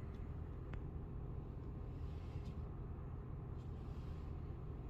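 Car engine idling steadily, a low even rumble, with a few faint light clicks.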